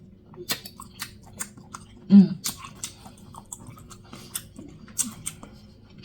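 Close-miked wet chewing and lip smacking from someone eating a buttery seafood boil, with many quick sharp smacks. About two seconds in comes a short voiced hum, the loudest sound.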